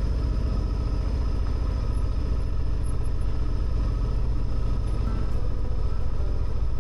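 Motorcycle engine running at a steady speed while riding, with no change in pitch or level.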